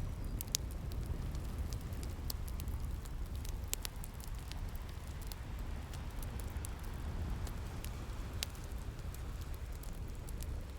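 Wood fire crackling with scattered sharp pops, over a steady low rumble of sea waves.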